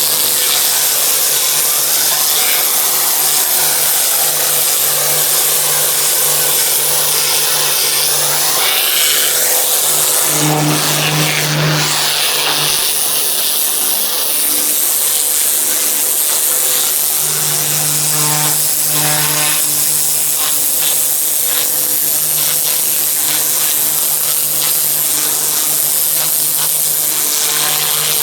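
Pressure washer running steadily: a pump hum under the loud hiss of the high-pressure water jet spraying paving. The hum swells briefly twice, about ten and seventeen seconds in.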